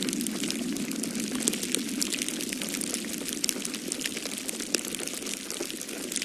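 Wood fire crackling in a fireplace: a dense, irregular stream of small sharp pops and snaps over a steady rushing of storm wind.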